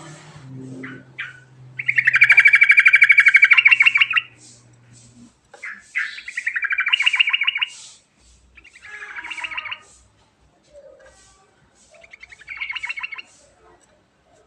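Yellow-vented bulbul (trucukan) singing its rolling song: four quick, rattling trilled phrases, the first the longest and loudest, the later ones shorter.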